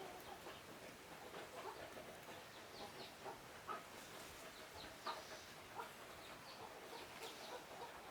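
Chickens clucking faintly, with short high calls scattered throughout.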